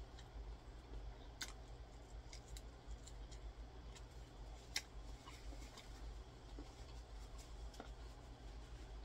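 Quiet close-up chewing of crispy fried chicken: soft crunches and small mouth clicks, two sharper ones about a second and a half in and near the middle, over a steady low hum.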